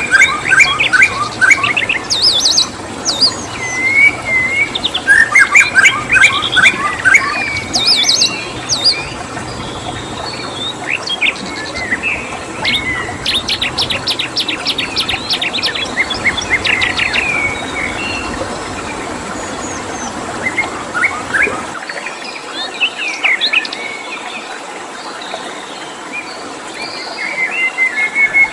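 Several songbirds chirping, whistling and trilling in quick overlapping phrases, with a fast rattling trill in the middle, over a steady background hiss. The low background rumble cuts out about three-quarters of the way through.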